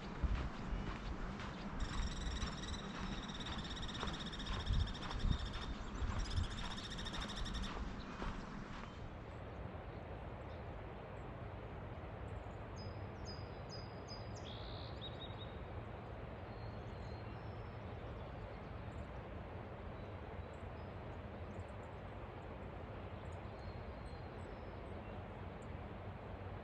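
Footsteps on the trail with a high, drawn-out bird call over them for the first several seconds, then the steady rush of the Dungeness River with a few short bird chirps about halfway through.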